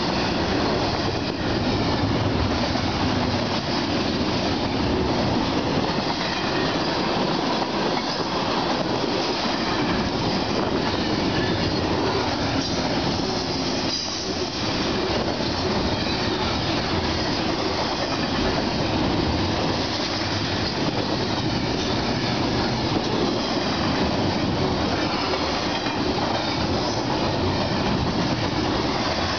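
CSX double-stack container train passing close by at speed: a steady, loud noise of steel wheels on rail and the rattle of the well cars and containers, going on without a break.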